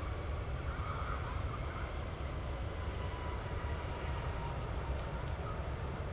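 Airliner jet engines running steadily: a low rumble with a faint, even whine above it.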